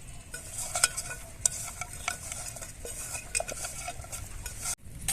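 Hands mixing a wet spice marinade into whole quail in a bowl: squishing and crackling with many small clicks, cut off abruptly near the end.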